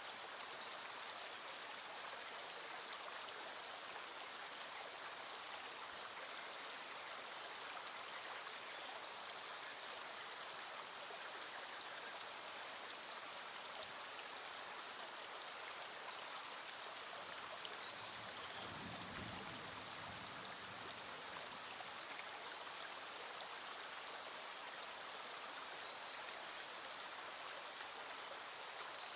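A small stream running steadily over rocks, with rain falling. About two-thirds of the way through, a faint low rumble swells and fades over a few seconds.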